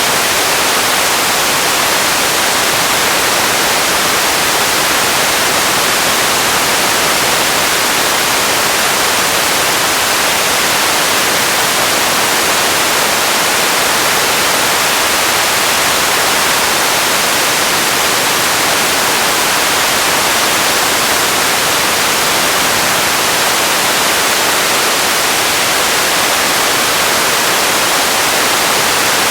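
Radio static: a steady, even hiss, strongest in the upper range, with no tones or breaks.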